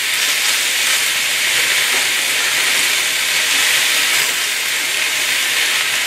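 Chicken and vegetables sizzling in a hot steel wok over a high gas flame, a steady hiss with no stirring strokes.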